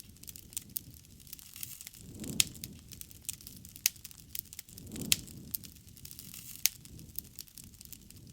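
Wood fire crackling, with irregular sharp pops over a low rumble of burning that swells twice, about two seconds and five seconds in.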